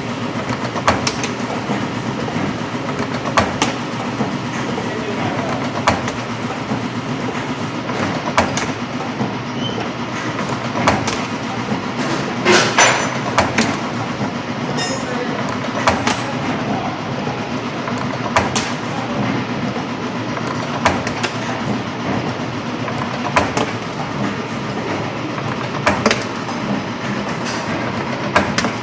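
8-axis CNC spring-forming machine running while it forms torsion springs. A steady mechanical hum carries a sharp clack about every two and a half seconds, with a louder rattle about midway.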